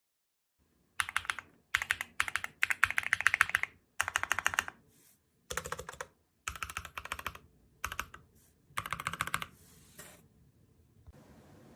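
Keys typed rapidly on an EPOMAKER EK21 mechanical number pad with Wisteria linear switches, in several quick runs of clacks broken by short pauses, stopping near the end.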